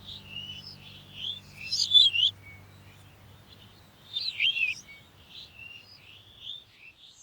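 Small birds chirping in quick runs of high, wavering calls, loudest in two bursts about two seconds in and again about four and a half seconds in.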